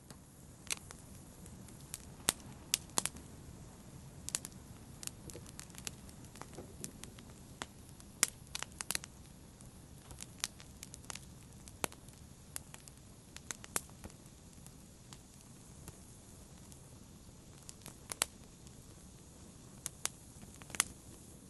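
Fireplace fire crackling: irregular sharp pops and snaps, in quick clusters at times, over a low steady rush of the flames.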